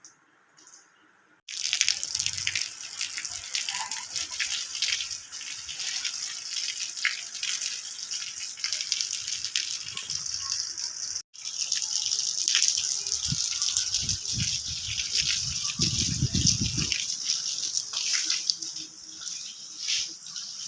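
Heavy rain falling steadily: a dense hiss full of individual drop hits. It starts abruptly about a second and a half in and breaks off for an instant near the middle. Some low rumbling comes a few seconds after that break.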